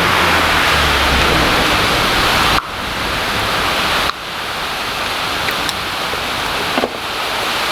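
Steady hiss of continuous rain, with a low rumble under it during the first two seconds or so. The level drops suddenly twice, about two and a half and four seconds in.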